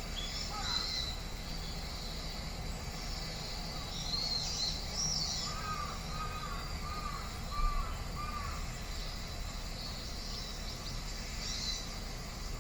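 Wild birds calling in trees: a run of five short repeated calls about halfway through, with scattered high chirps before and after, over a steady low background rumble.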